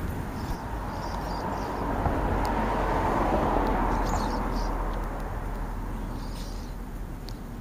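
A passing vehicle, its tyre and engine noise swelling to a peak about three seconds in and then fading away, with a few faint bird chirps.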